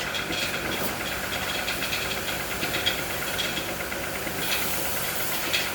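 Mahindra 605 Arjun tractor's four-cylinder diesel engine running steadily, with a rapid, even clatter.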